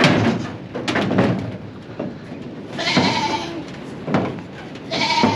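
Dairy goats bleating: two drawn-out calls, about three seconds in and again near the end, with a few sharp knocks before them.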